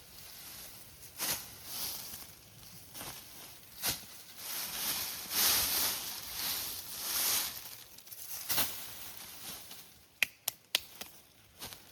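Rustling of leaves and forest undergrowth in irregular swishes, one longer stretch in the middle, with a few sharp clicks about ten seconds in.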